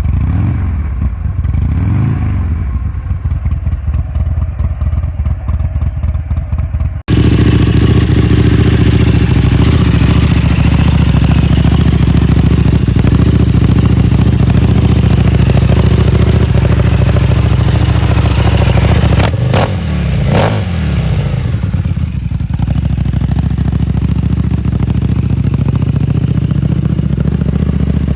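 Buell XB9S's air-cooled V-twin running with two short throttle blips. After a sudden cut, a Buell 1125R's liquid-cooled V-twin runs louder and steady, revved twice just past two-thirds of the way through.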